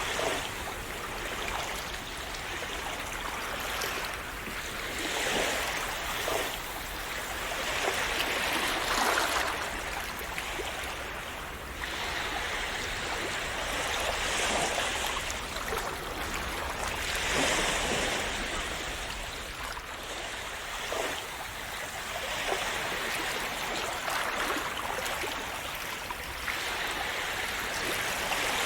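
Small sea waves washing and splashing on the shore, the rush of water swelling and falling back every few seconds.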